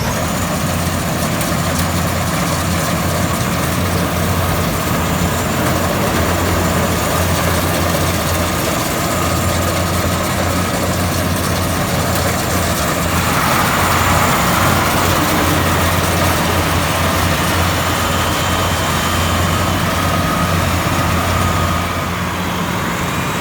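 Diesel engine and threshing machinery of a Maxxi Bimo 102 rice combine harvester running steadily with a low hum. It grows slightly louder about halfway through and eases a little near the end.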